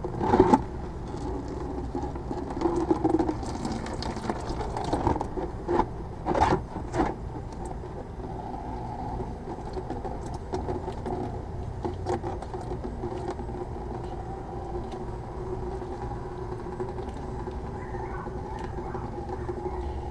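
Metal knocks and scrapes of an oil filter wrench working loose a very tight spin-on oil filter, several sharp clanks in the first seven seconds, the loudest at the very start. A steady mechanical hum follows.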